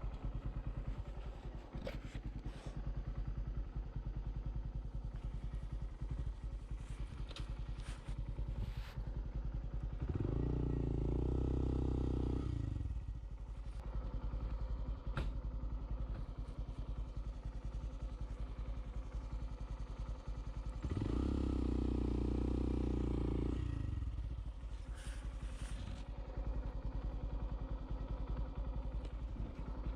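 Honda Monkey 125's single-cylinder four-stroke engine running steadily, its firing pulses constant, with a heavy low rumble swelling louder twice for a few seconds.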